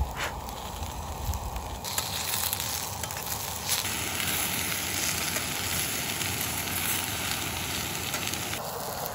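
Sliced bell peppers and onions sizzling in a hot frying pan on a small camping gas stove as they are stirred with a fork. The sizzle grows louder about two seconds in.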